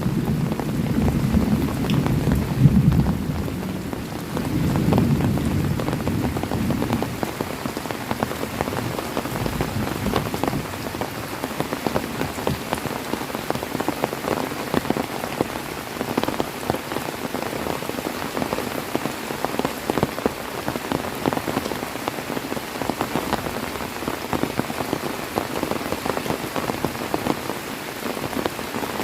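Heavy rain falling steadily, with a dense patter of individual drops striking a surface. A low rumble of thunder sounds during the first several seconds and dies away.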